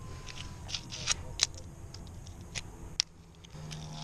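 Fingerboard being flicked and landed: a series of sharp small clicks and clacks from the deck's tail popping and the tiny board hitting the obstacle, about six in all.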